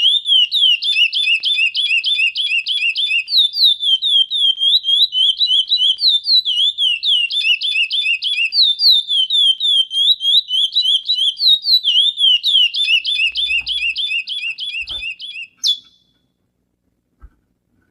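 Chestnut-bellied seed-finch (curió) singing: a long, fast run of clear whistled notes in repeating phrases. The song stops with a single sharp rising note near the end.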